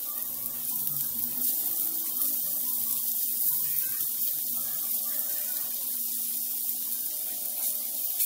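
Bitter gourd slices sizzling in oil on a hot cast-iron dosa tawa: a steady frying hiss as more slices are laid in.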